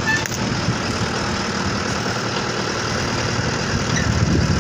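Diesel engine running steadily at a low, even speed.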